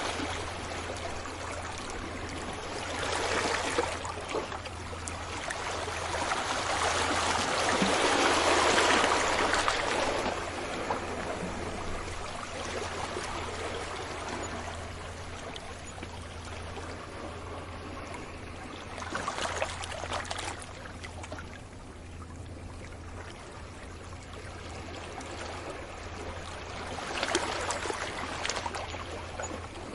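Sea waves breaking and washing up a beach: slow swells of surf that rise and fall, the biggest about a third of the way in, with smaller ones later and near the end.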